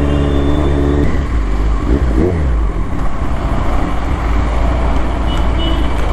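Kawasaki Z900's inline-four engine while riding: a steady engine note for about a second, then a steady low rumble, with the engine pitch dipping and climbing again about two seconds in.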